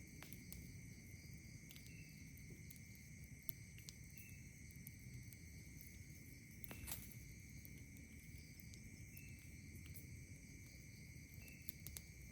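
Night insects trilling steadily at several high pitches, with a short chirp every few seconds. Scattered sharp crackles and pops from a wood campfire, the loudest about seven seconds in, over a faint low rumble.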